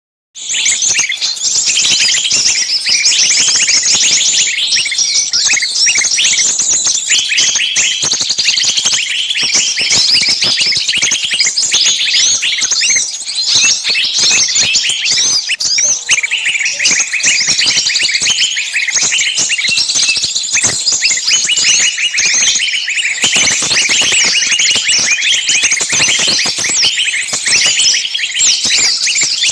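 Many birds chirping at once in a dense, continuous chorus.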